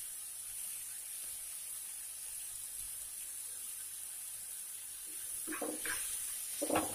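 Chopped tomatoes and onions sizzling steadily in hot oil in a steel frying pan.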